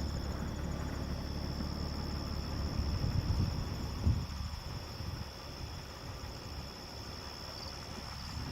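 Night insects chirring steadily in one high band, over a low rumble that swells about three to four seconds in.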